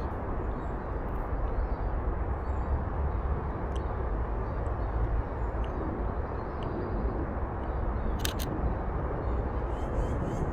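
Canon EOS RP camera shutter clicking: a faint single click about four seconds in, then a quick pair about eight seconds in, over a steady low rumbling noise.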